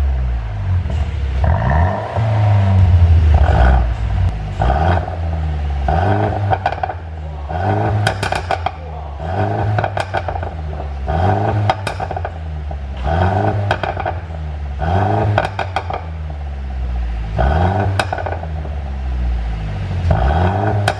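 Mercedes-Benz W205 C200 engine being blipped repeatedly, about every two seconds, each rev followed by a rapid crackle of exhaust pops as the revs fall: the overrun pops and crackles of an ECU pop-and-bang tune.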